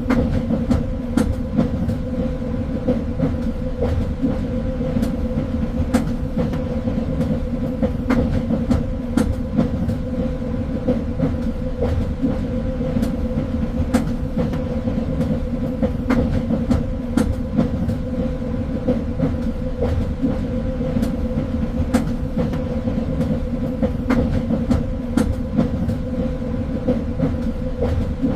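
Train in motion on rails: a steady low rumble with a constant hum, broken by irregular clicks and knocks from the running gear.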